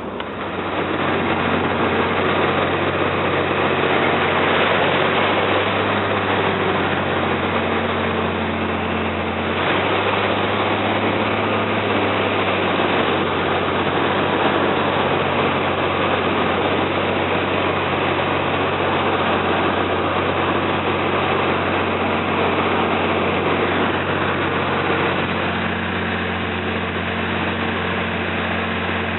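A river slow boat's engine running steadily, a constant low hum with dense engine noise on top.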